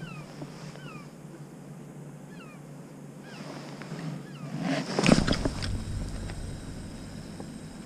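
A bird calling in short falling chirps, about one every second. About five seconds in there is a brief loud rustle and thump.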